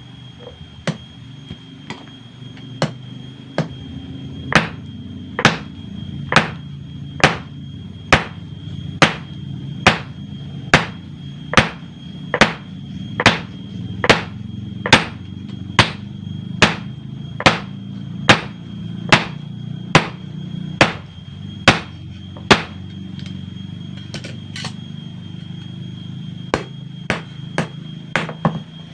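Hand hammer striking hot bearing steel on an anvil, forging a knife blade. The blows are steady and ringing, a little faster than one a second. After a short pause, a few quicker blows come near the end, all over a steady low hum.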